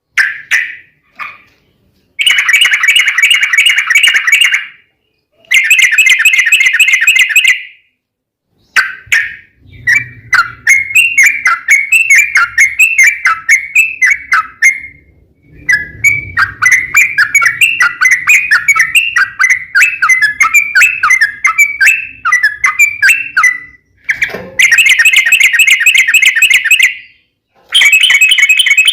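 Yellow-vented bulbul (trucuk) song, loud and fast. Several dense rolling trills of two to three seconds each are broken by short gaps. In the middle comes a longer run of quick, separate chirping notes over a faint low rumble.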